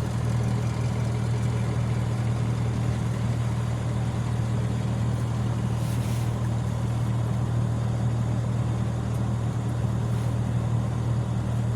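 Steady low engine hum heard from inside a car's cabin, even and unchanging throughout.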